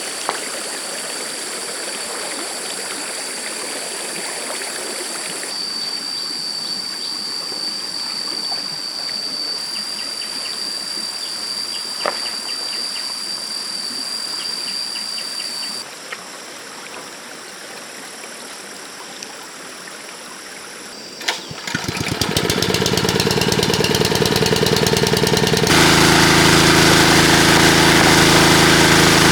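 Running stream water with a steady high-pitched whine over it. About two-thirds of the way in, a small engine starts up and runs loudly with a steady beat, getting louder again near the end.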